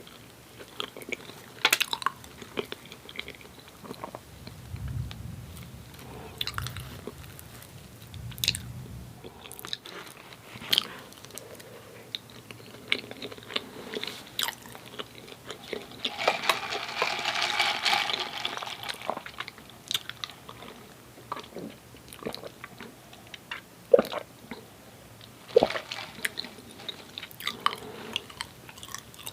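Close-miked eating sounds of soft doughnuts: chewing and biting with many short wet mouth clicks and smacks. Past the middle there is a denser stretch of noise lasting about three seconds.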